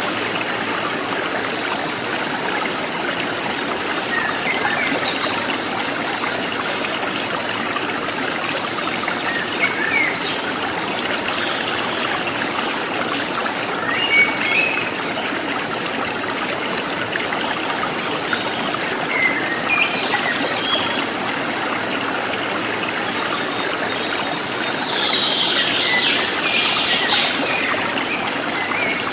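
Small stream trickling steadily, with short chirps of wild birds now and then, busiest near the end.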